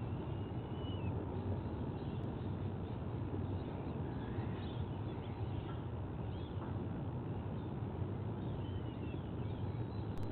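Steady low outdoor background rumble, with a few faint, short high bird calls here and there.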